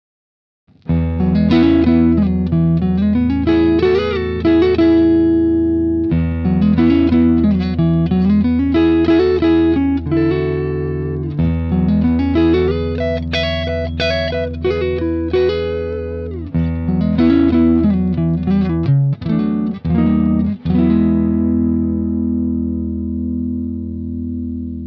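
Clean electric guitar with Leosounds Fireball single-coil pickups, played through a Fender Bassman amp. It starts about a second in with a melodic line of bent and sliding notes and one held note near the middle, and ends on a chord left ringing and slowly fading.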